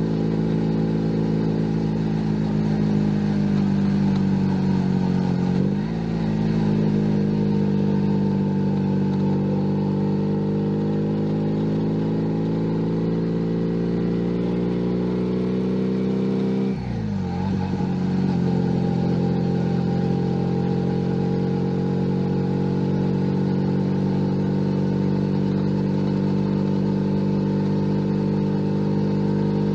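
Junak M11 Cafe 125 cc motorcycle engine pulling under way, its note rising slowly. About six seconds in it dips briefly, and around seventeen seconds in it drops sharply and settles back to a steady cruising note, like gear changes.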